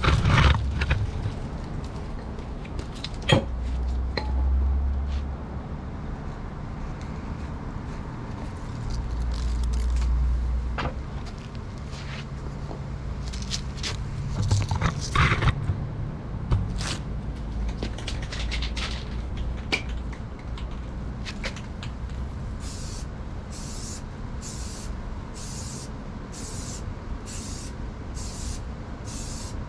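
Bonding primer being sprayed in short hissing bursts, about one every three quarters of a second near the end, with scattered knocks and clicks from handling in between.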